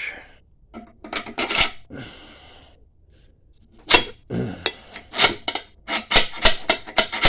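Half-inch metal electrical conduit being fitted over a threaded rod into a lawn tractor wheel's bore: a string of sharp metal clinks and scrapes, with a short ringing about two seconds in. The clinks come faster in the second half.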